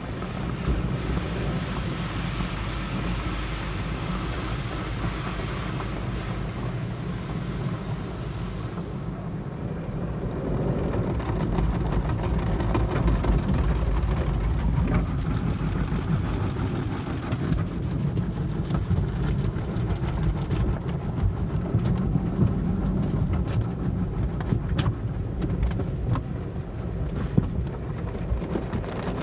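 Car wash equipment running over a car: a steady spraying hiss for the first nine seconds. Then the hiss cuts away to a low rumble with scattered taps and patters, like water striking the bodywork.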